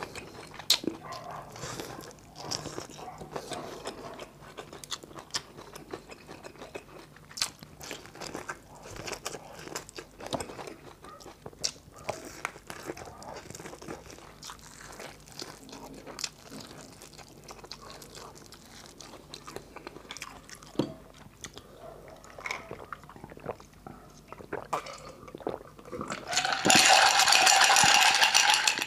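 Close-up mouth sounds of a person biting kernels off a boiled corn cob and chewing, with scattered small crunches and wet clicks. Near the end, a loud rushing sound lasts about two seconds.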